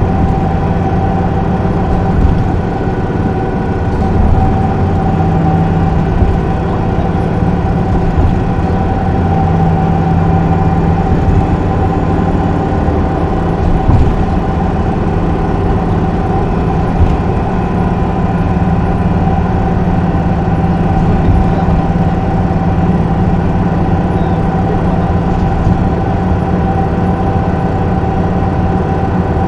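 Isuzu Erga city bus's diesel engine heard from inside the passenger cabin, running steadily with a constant high tone over the low engine drone.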